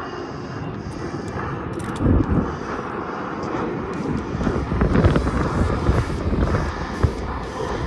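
Wind buffeting the microphone: a rough, low rushing rumble that surges louder about two seconds in and again around five seconds.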